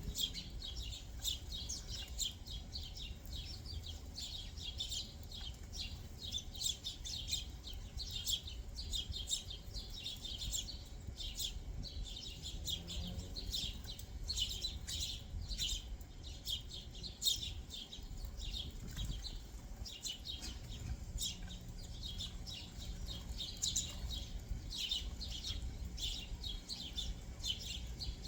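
Backyard songbirds chirping without pause: many short, high chirps overlapping from several birds, over a steady low rumble.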